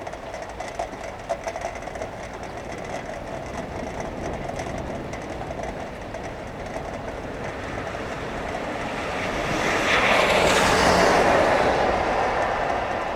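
Steady rain with a vehicle passing on the wet road, its tyre hiss swelling to a peak about ten seconds in and then fading.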